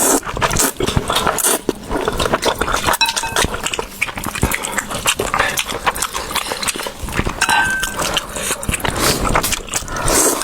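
A person slurping and chewing thick spicy instant noodles in a little broth, with many quick, irregular wet smacks and clicks.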